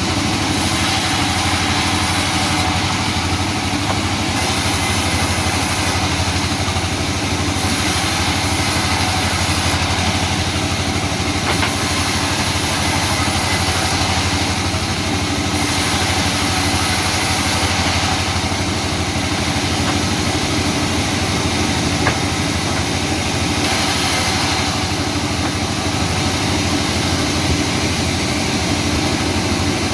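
Sawmill machinery running steadily, with an even, engine-like drone.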